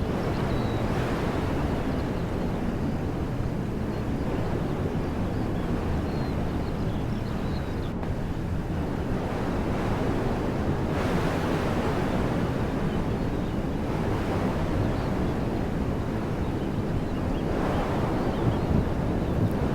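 Wind blowing through woodland trees: a continuous rushing noise that swells in gusts about eleven seconds in and again near the end.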